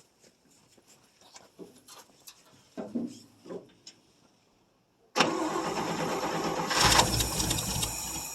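A few light knocks, then the 1959 International B120 pickup's engine being cranked on the starter for about three seconds. It grows louder near the end and stops abruptly.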